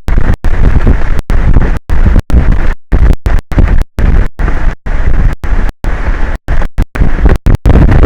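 Strong wind buffeting an exposed microphone on an offshore platform: a loud, distorted low rumble, chopped by frequent brief dropouts in the audio.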